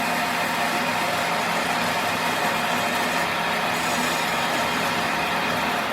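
A machine running steadily, an even mechanical noise with a faint steady hum.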